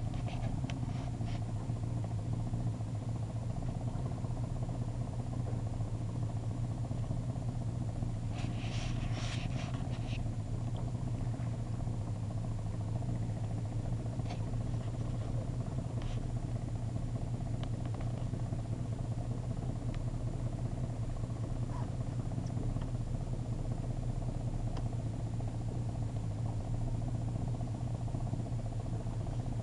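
Boat engine idling with a steady low hum. A few light clicks come about nine seconds in.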